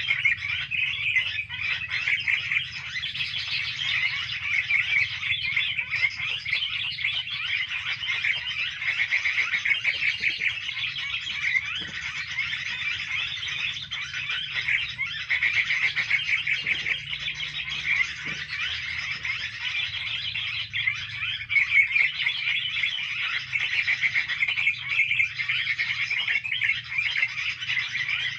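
Dense, continuous chattering of many small songbirds, rapid high chirps overlapping without a break.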